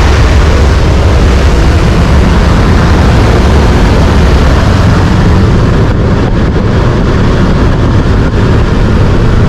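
Car engines at full throttle during a street roll race, with heavy wind noise. A loud, steady, deep rumble that overloads the microphone.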